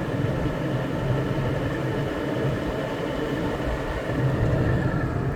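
Belt-driven Dayton downblast exhaust fan running steadily on its newly fitted 4L290 belt: an even rush of moving air over a low hum.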